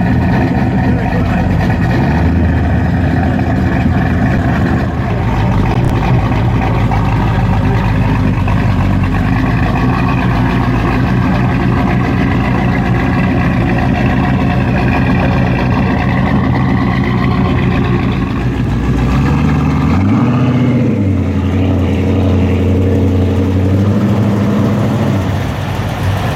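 A V8 muscle car engine runs steadily. About twenty seconds in it gives one short rev that rises and falls back to idle, and near the end there is a smaller blip.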